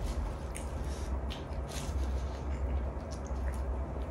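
Close-up eating sounds: wet chewing and smacking of spicy stir-fried chicken wrapped in lettuce leaves, with a few scattered light clicks and a steady low hum underneath.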